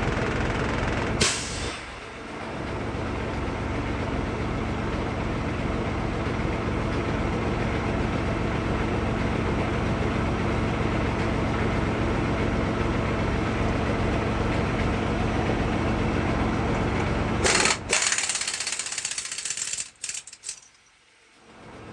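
Paccar MX-13 diesel truck engine idling steadily, running to supply air to an air impact wrench. The 3/4-inch air impact wrench hammers in a short burst about a second in, and again in several bursts near the end.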